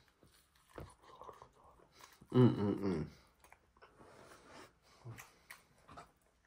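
A person chewing food close to the microphone, with small scattered clicks of the mouth, and one short, loud vocal sound about two and a half seconds in.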